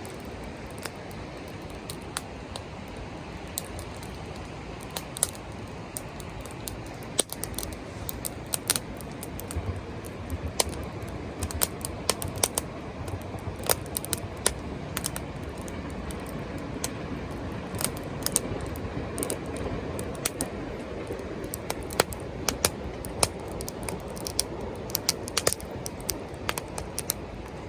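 Wood fire crackling: sharp, irregular pops and snaps over a steady low rush.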